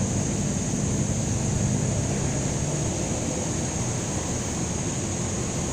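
Steady outdoor background noise: a low, even rumble with a constant high hiss and no distinct event.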